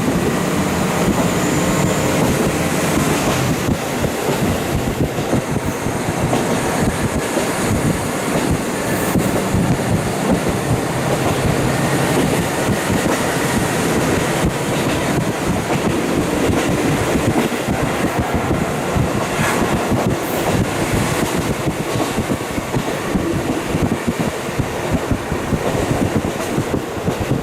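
KiHa 40 diesel railcar under way, heard from inside the car through a fully open window: the engine's steady note, wheels knocking over the rails, and wind rushing in.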